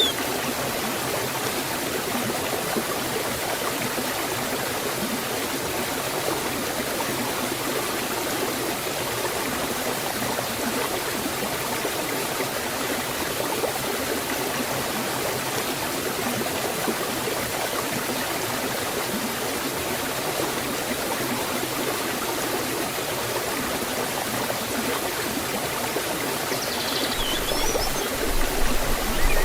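Forest waterfall and stream, water rushing and splashing steadily. A few brief high chirps come near the end.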